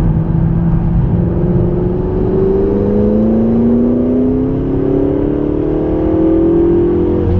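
McLaren 650S twin-turbo V8 accelerating, its note rising steadily in pitch for about six seconds and then dropping back near the end, over a steady low road and tyre rumble.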